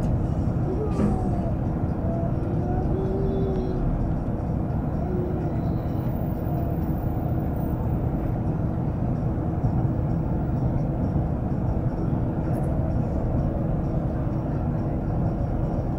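Steady rumble of an N700 series Shinkansen train running at speed, heard inside the passenger cabin: wheels on rail and running noise, with a faint steady hum throughout.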